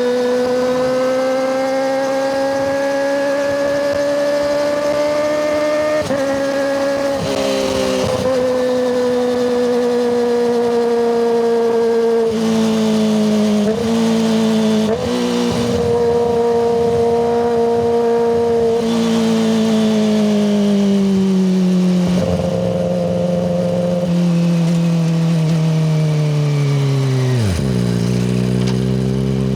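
Kawasaki ZX-25RR's 250 cc inline-four engine running at high revs through a Yoshimura Hepta Force exhaust. It gives a loud, high drone whose pitch drifts slowly and dips sharply several times, then drops steeply near the end as the revs fall away.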